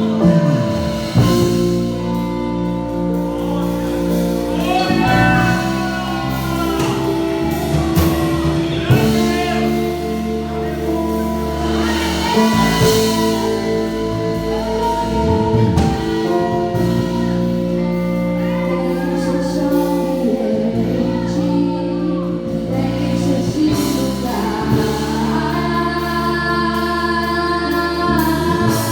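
Live gospel worship music: singing over long held chords.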